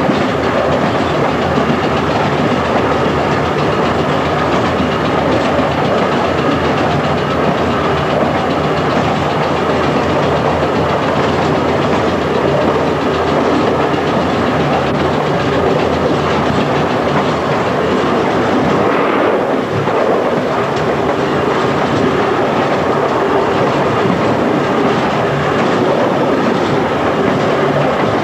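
1927-built Standard stock electric tube train running at speed, heard from the cab: a steady, loud rumble of wheels on rails with the clickety-clack of wheels passing over rail joints.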